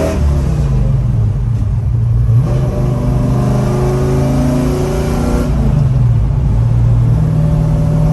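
Cutlass engine running with its revs rising and falling, the pitch dropping suddenly right at the start and again about five and a half seconds in, then climbing again.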